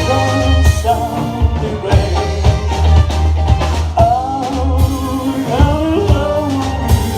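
Live rock band playing, with drum kit and bass under a melodic line that bends in pitch.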